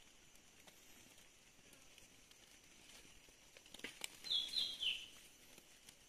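A bird call of three short, high notes about four seconds in, the last one sliding downward, preceded by a few light clicks over a faint outdoor background.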